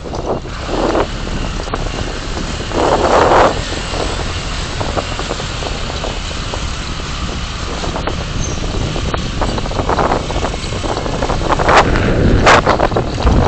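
Steady road and wind noise from a moving car, picked up by a dashcam microphone. Louder rushes of noise come about three seconds in and again near the end.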